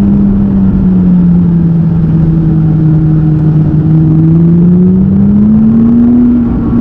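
McLaren 570GT's twin-turbo V8 pulling along the road with a steady drone. The pitch sags a little through the middle and climbs back up near the end as the revs rise.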